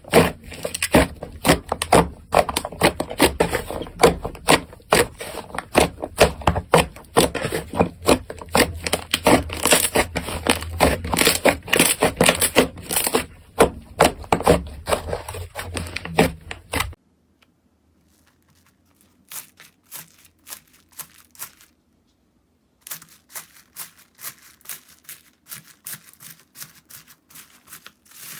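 Slime being squeezed and stretched by hand, making a dense run of crackling, popping clicks. It stops abruptly about 17 seconds in. Quieter, sparser clicking follows, with a brief silence before it picks up again.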